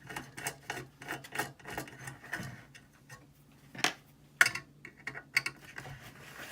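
Screwdriver backing screws out of a metal door-operator housing: a run of small, irregular clicks and rubbing scrapes, with two sharper clicks a little past halfway.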